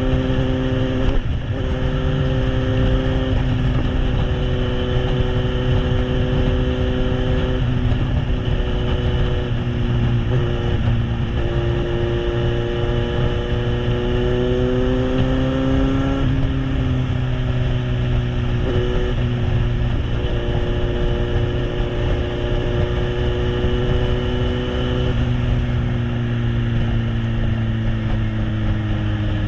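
Kawasaki Z800's inline-four engine through an SC Project aftermarket exhaust while riding at speed. The revs hold steady, climb for a few seconds around the middle and drop suddenly at a gear change, then ease down gently near the end.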